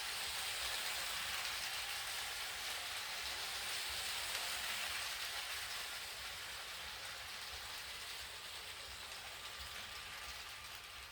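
Steady, even hiss like rain falling, without any tone or beat, fading out gradually over the second half.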